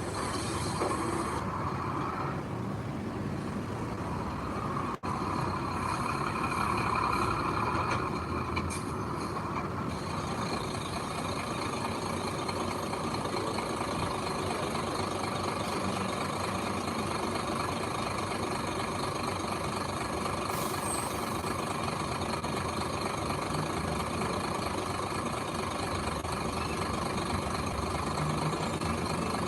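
Heavy diesel machinery engine running steadily, with one very brief cut-out about five seconds in.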